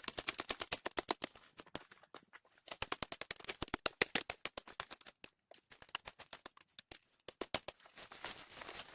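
Stones and soil being handled and worked by hand: a rapid, irregular run of small clicks, knocks and scrapes, pausing briefly about two seconds in and again after five seconds.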